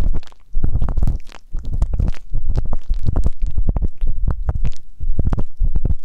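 Ear pick scraping and rubbing in a microphone's ear: a dense, uneven run of quick scratches over muffled low rumbling, very close to the mic.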